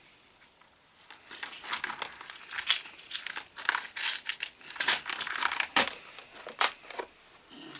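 Irregular crinkling and small clicks of electrical wires and plastic insulation being handled and pushed into place, in a quick uneven run of short sounds.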